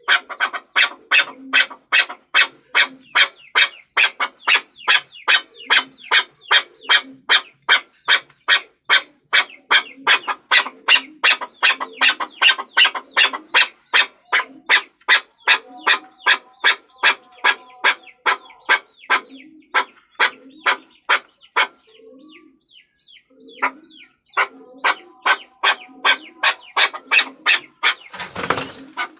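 Chukar partridge calling, a rapid series of sharp chucking notes at about three a second, breaking off briefly about three quarters of the way through before resuming. A short loud burst of noise comes near the end.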